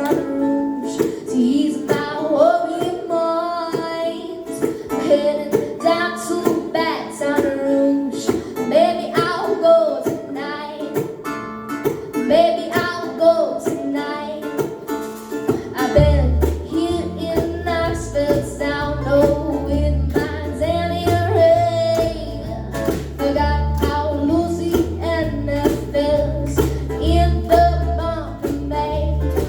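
Live band music: a young girl singing with acoustic guitar accompaniment. A low bass line comes in about halfway through.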